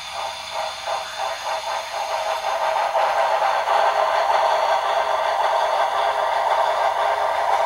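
HO scale Shay locomotive model's LokSound 5 sound decoder playing steam exhaust chuffs through the model's small speaker. The chuffs come about five a second at first, then quicken until they run together into a steady chuffing hiss about two seconds in.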